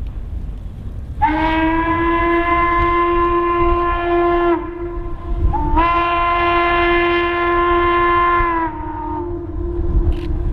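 Two long blasts of a steam locomotive's chime whistle, each a steady chord of several notes lasting about three seconds, over the low rumble of the locomotive. A low note keeps sounding faintly after the second blast. Two long blasts is the railroad signal that the train is releasing its brakes and about to move off.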